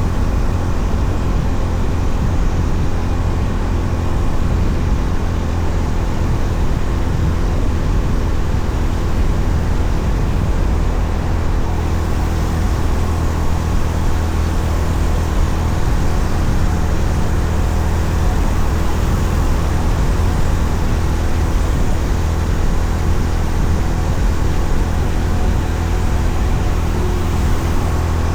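Honda CB350RS single-cylinder engine running steadily at cruise under wind and road noise, with no change in pace.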